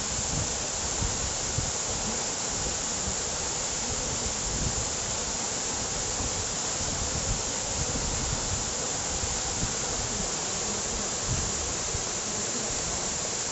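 Waterfalls rushing: a steady hiss of falling water, with an irregular low rumble coming and going underneath.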